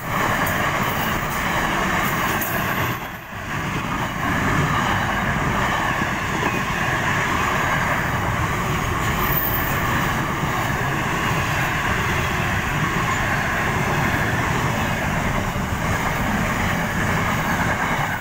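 Container wagons of an intermodal freight train rolling past at speed: loud, steady wheel-on-rail noise that briefly dips about three seconds in.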